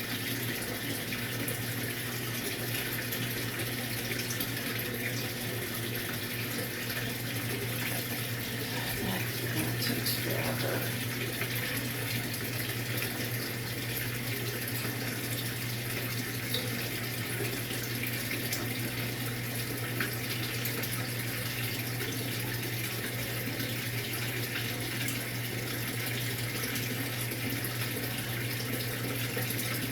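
Maytag MVWX655DW1 top-load washer with water running steadily into or through its tub during a tub clean cycle. It is a constant rush of water over a steady low hum.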